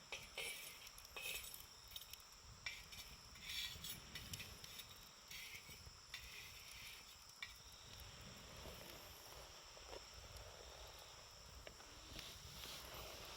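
Campfire burning quietly, with scattered faint crackles and short hisses from the wood, over a steady high trill of insects.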